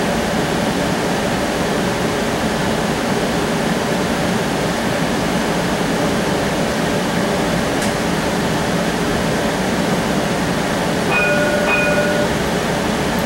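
Steady running noise of a streetcar on its track, heard from inside the car. Near the end a short two-pulse tone sounds.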